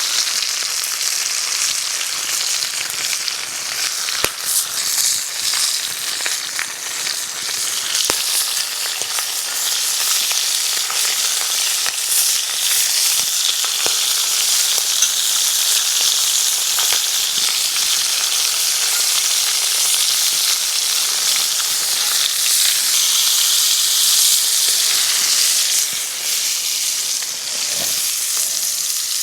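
Food frying in a pan over an open campfire: a steady, loud sizzle with a few sharp pops, easing briefly near the end.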